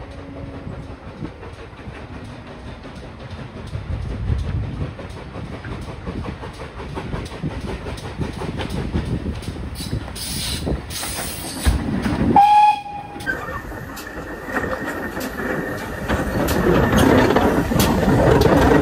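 Steam train on the move: the pannier tank locomotive and its carriages running with rail clatter. A short steam whistle sounds about twelve seconds in, and the train then grows louder toward the end.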